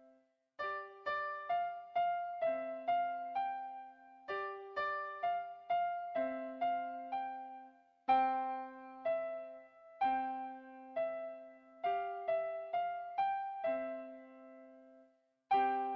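Piano playing a simple beginner-level children's piece: a slow melody of single struck notes over long-held bass notes, in short phrases, with brief breaks about half a second in and again near the end.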